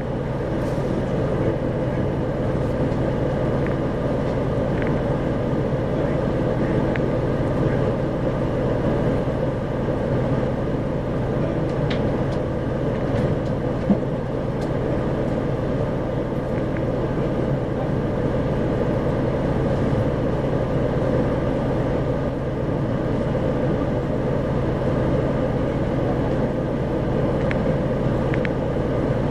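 Inside an Isuzu 2RG-LV290N4 city bus under way: steady diesel engine and road noise hum. A single sharp knock about 14 seconds in.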